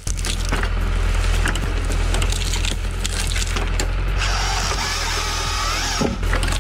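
Heavy forestry machinery working timber: a steady deep engine drone under a dense crackle of snapping and splitting wood. A high whine joins from about four seconds in and fades about two seconds later.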